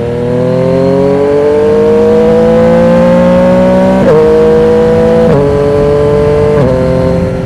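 Yamaha MT-09's inline three-cylinder engine through a Termignoni exhaust with the dB killer removed, accelerating hard: the engine note rises steadily, then drops sharply three times as the rider shifts up through the gears.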